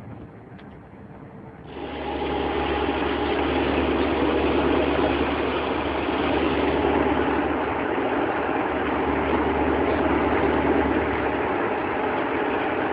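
Scania R620's 16-litre V8 diesel engine idling steadily. The sound jumps suddenly to full loudness about two seconds in, then holds even.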